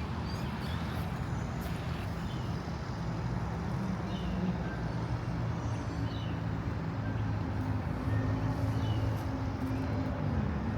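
City traffic: a motor vehicle's engine hums steadily close by, its pitch dropping away near the end, over a bed of traffic noise, with a few faint bird chirps.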